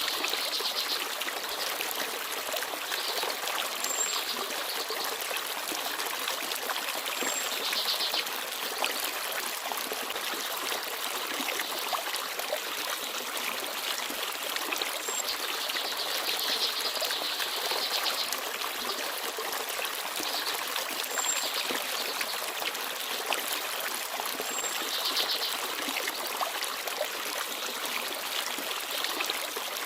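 Forest stream babbling steadily, with a few short, very high bird chirps now and then.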